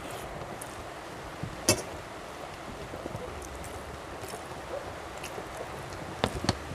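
Eating sounds of a person chewing rice eaten by hand, with a few sharp mouth clicks: the loudest about one and a half seconds in and several more near the end, over a steady background hiss.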